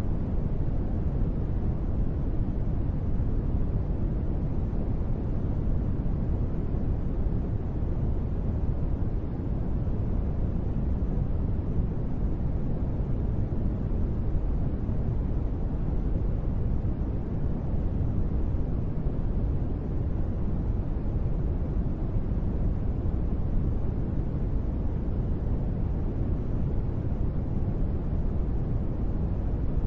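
Steady, deep rushing noise from a sleep-noise track sold as gentle rain. It is even throughout, weighted toward the low end, with no separate drops, breaks or changes.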